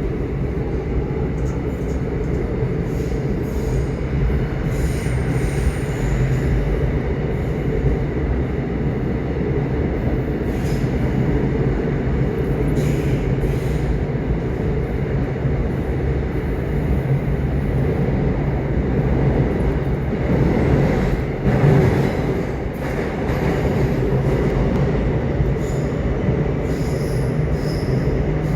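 Subway train running: a steady low rumble of the car rolling on the track, with a faint high tone over it and scattered light clicks, swelling briefly about two-thirds of the way through.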